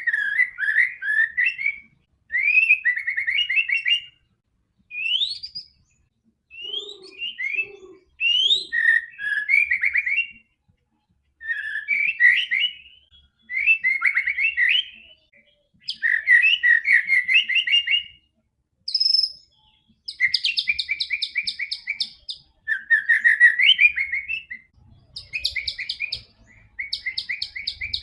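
White-rumped shama singing. It gives a string of varied phrases of quick trills and rising whistled notes, each a second or two long, with short pauses between them.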